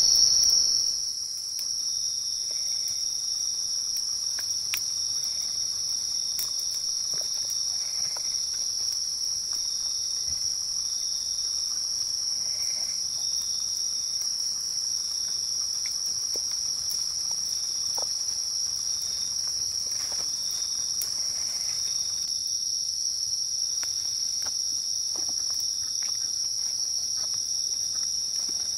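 Night insect chorus: crickets trilling steadily at a high pitch, with a lower chirping in short regular pulses underneath and a few faint clicks.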